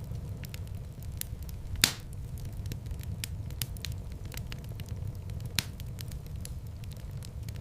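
Wood fire burning in a fireplace: a steady low rumble of flames with irregular crackling, a loud pop about two seconds in and another sharper pop a few seconds later.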